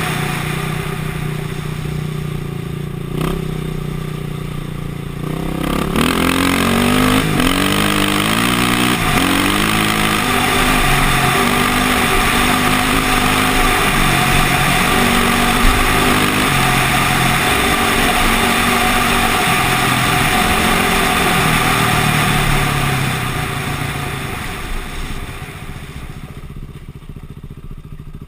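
KTM dirt bike engine running steadily at low revs, then about six seconds in revving up through the gears in a series of rising steps, its speed rising and falling as it rides on. The engine note dies away over the last few seconds.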